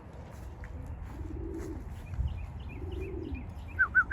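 Pigeons cooing, low and drawn out, three times. Near the end comes a quick run of high, rapid chirps.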